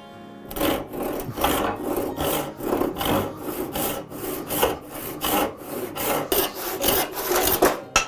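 A hand tool being drawn back and forth across wood in quick, even strokes, about three a second, stopping shortly before the end.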